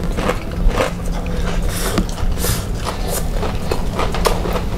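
Close-up chewing of crispy battered fried chicken: a run of sharp, crackly crunches mixed with wet mouth noises.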